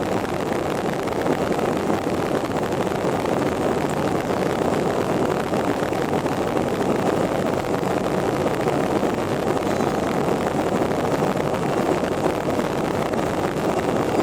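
Airbus A350-900's Rolls-Royce Trent XWB jet engines at high thrust for takeoff, a loud, steady rushing noise with a low rumble that holds even throughout.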